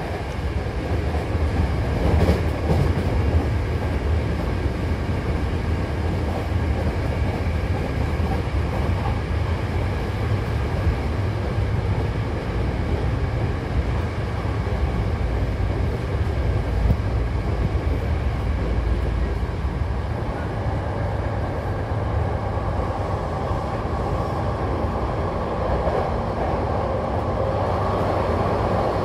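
Hankyu train car running between stations, heard from inside the car: a steady rumble of wheels on rail. The noise grows louder and brighter over the last several seconds.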